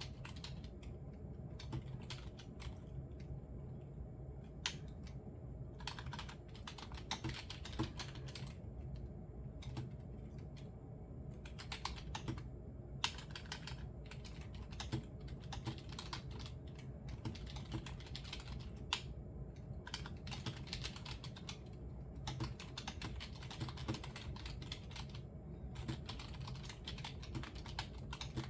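Typing on a computer keyboard: quick runs of keystroke clicks broken by short pauses, over a steady low background hum.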